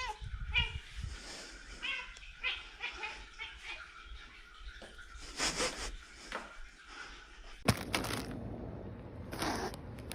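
A domestic cat giving a few short meows in the first few seconds. A sharp knock follows later, and then rustling noise.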